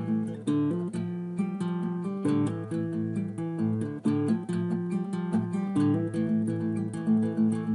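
Acoustic guitar playing an original piece: a steady run of quick plucked notes over changing chords.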